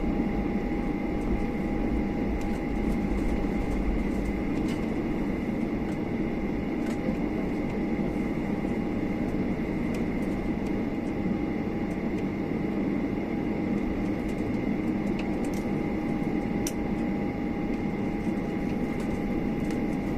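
Steady cabin drone of a Boeing 737-800 taxiing after landing: its CFM56-7B engines at idle and the cabin air supply. It is an even low rumble with two thin steady tones above it and a few faint clicks.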